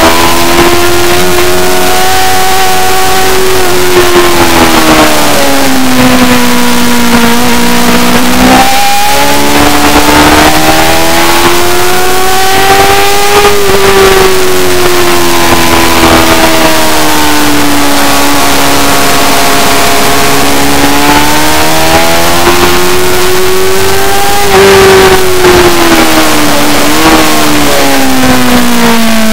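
Superbike engine running hard at high revs, its pitch climbing and falling over several seconds at a time as the bike accelerates and slows, with a sudden jump in pitch about nine seconds in. Steady rushing noise runs underneath.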